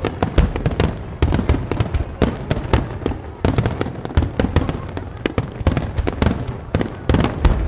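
Fireworks finale barrage: aerial shells bursting in rapid, overlapping succession, several loud booms a second with crackle between them.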